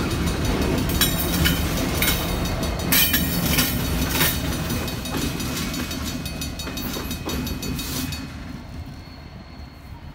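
A train rolling past, its wheels rumbling and clacking sharply over rail joints several times, then the sound fades away near the end as the train moves off.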